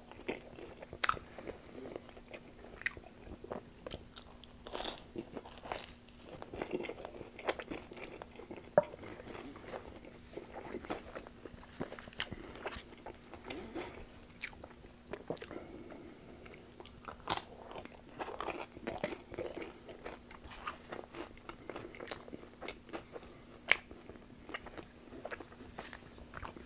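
A person biting and chewing Pizza Hut cheese pizza: irregular bites, crust crunches and wet mouth clicks every second or so, with no speech.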